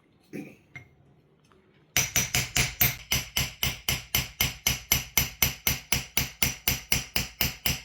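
Small hammer tapping a steel engraving chisel into a silver dish in qalamzani hand-engraving: a quick, even run of ringing metallic taps, about five a second, starting about two seconds in after a couple of light knocks.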